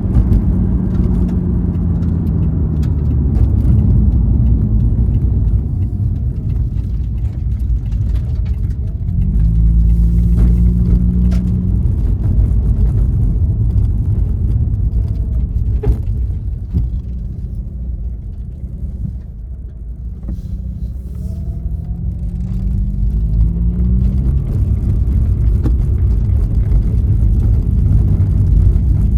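Mazda RX-8's two-rotor rotary engine running through a Fujita Engineering SonicMuffle aftermarket exhaust while the car is driven: a steady low rumble, easing off quieter a little past halfway, then climbing in pitch in a few short steps as it accelerates through the gears.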